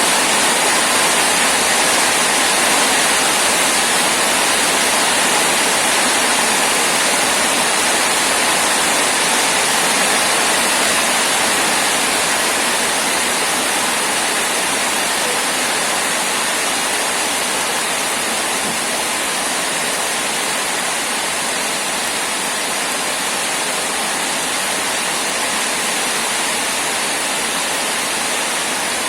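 Heavy rain falling steadily, a dense even hiss, slightly softer in the second half.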